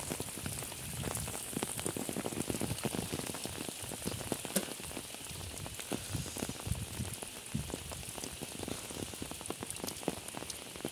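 Steady rain falling on the surface of a flooded pond, a dense run of small drop impacts.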